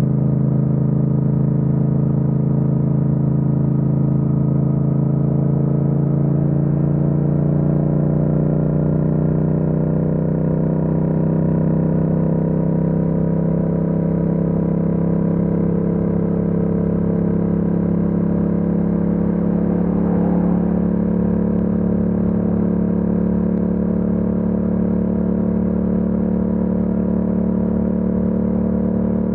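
Yamaha MT-07's 689 cc parallel-twin engine running at steady cruising revs, its pitch rising slightly partway through, then holding.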